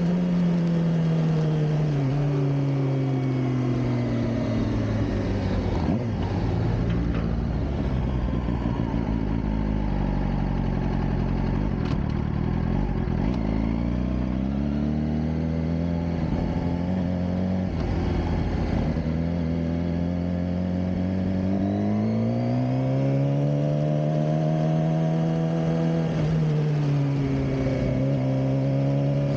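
Suzuki GSX-R600 K7's inline-four engine heard on board while riding. Its note falls as the bike slows over the first ten seconds or so, stays low for a few seconds, then climbs as it accelerates and holds steady, dips briefly near the end and climbs again.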